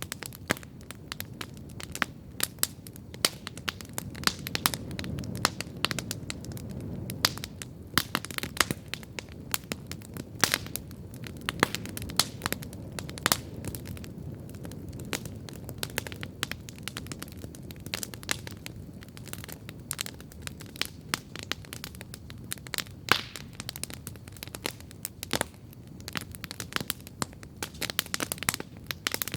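Wood campfire crackling steadily, with frequent sharp pops and snaps scattered irregularly over a low, steady rumble of burning.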